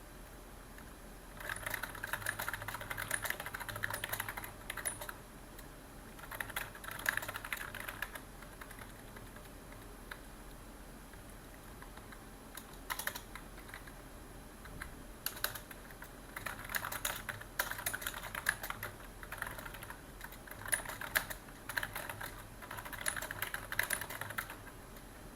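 Typing on a computer keyboard: quick runs of key clicks lasting a few seconds each, broken by short pauses and a few single keystrokes.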